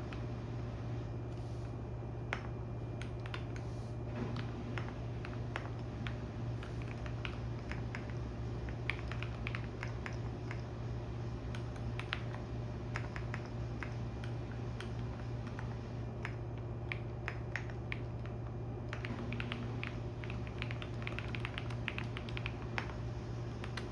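Computer keyboard typing in irregular bursts of clicks, over the steady low hum of a washing machine running.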